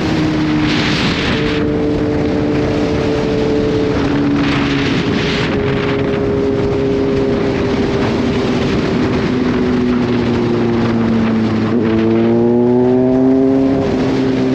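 Kawasaki Z H2's supercharged inline-four running under way, its pitch sinking slowly as the bike cruises and eases off, then rising for about two seconds near the end as the throttle is rolled on before it levels off. Rushes of wind noise come and go over the engine.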